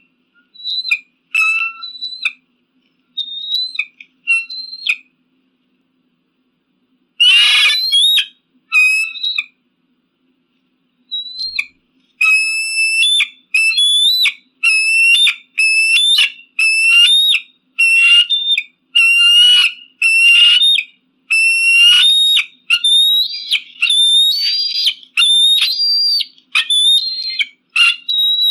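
Eagle giving high-pitched, whistled calls: a few scattered calls at first with one harsher, rasping call about seven seconds in, then a steady run of repeated calls about one and a half a second through the second half.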